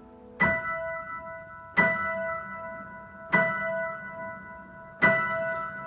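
Piano improvisation: the same bell-like chord struck four times, about a second and a half apart, each left to ring and fade.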